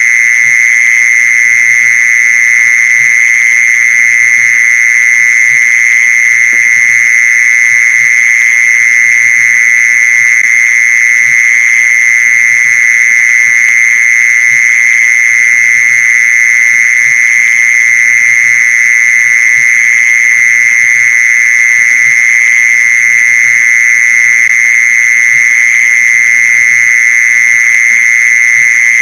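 Mole cricket calling song: a loud, continuous trill held at one steady pitch without a break.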